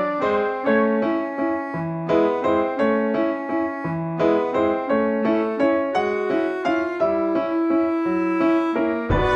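Background music: piano playing a steady run of notes, several a second, with a new loud chord struck near the end.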